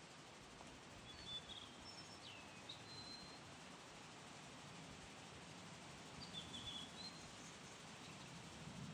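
Faint steady rush of a mountain stream, with a few short chirping bird calls over it, about a second in, around three seconds, and again a little after six seconds.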